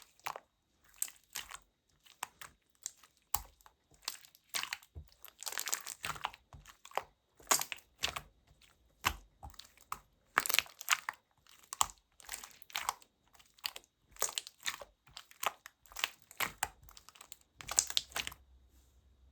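Jelly-textured slime being squished and stretched by hand, giving irregular clusters of sticky clicks and crackling pops. The sounds stop shortly before the end.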